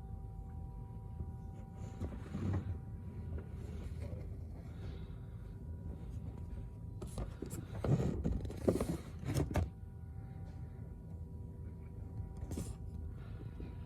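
A faint, steady, unfamiliar tone holding several pitches at once, over a low background rumble, with a few louder swishing noises about eight to nine and a half seconds in. The person recording takes the tone for a possible car alarm or house alarm.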